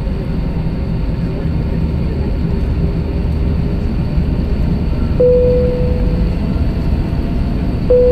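Airbus A321 cabin noise in flight: a steady rumble of the engines and airflow. A single-tone cabin chime sounds twice, about five seconds in and again near the end, each ringing and fading.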